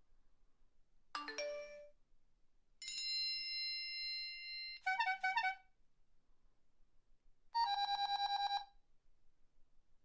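A series of electronic phone alert and ring tones, one after another: a short falling run of notes about a second in, a held chime of several tones for about two seconds, then a quick pulsing ring, and later a fast trilling ring lasting about a second.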